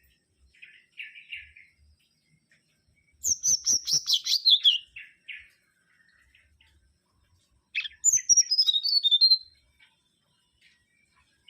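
Mangrove whistler singing. There are a few soft notes first, then two loud phrases of rapid notes that fall in pitch, one about three seconds in and another about eight seconds in.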